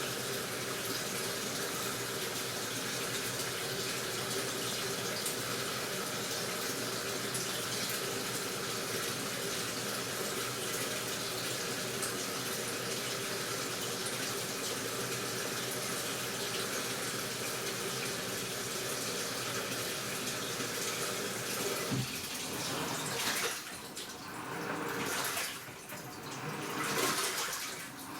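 Water pouring steadily into an AQUA washing machine's drum. About 22 seconds in the steady rush stops and gives way to uneven swishing surges of water that rise and fall every second or two.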